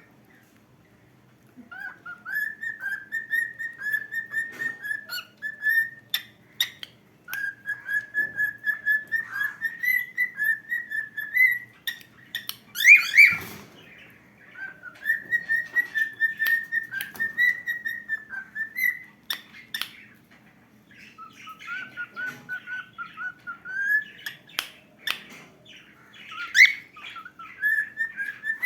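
Cockatiel whistling its song in quick warbling phrases, several bouts with short pauses between them, and a louder shrill note twice. A few sharp clicks sound in between.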